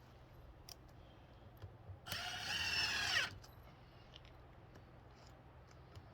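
Cordless drill driving a screw into plywood: one run of about a second, about two seconds in, with the motor's pitch dropping as it stops. A few faint clicks and taps around it.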